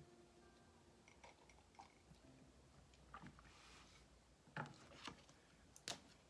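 Near silence broken by a few faint, scattered clicks and soft knocks, with a brief soft rustle in the middle.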